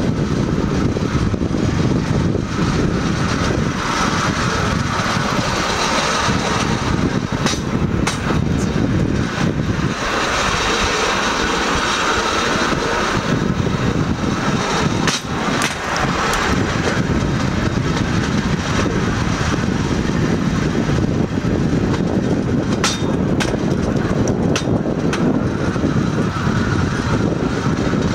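Steel wheels of a pedal-powered rail cart rolling along old railway track: a steady rumble with a few sharp clacks at the rail joints.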